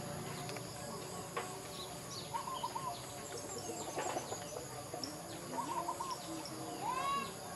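Birds calling: short chirping notes in quick groups of about four, and an upward-sweeping call near the end, over a steady faint high hiss.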